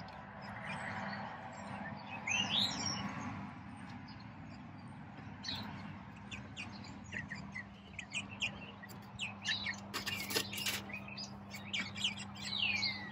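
Birds chirping: many short, high chirps, with a rising sweep a couple of seconds in and falling calls near the end. A few sharp clicks sound about ten seconds in, over a faint steady low hum.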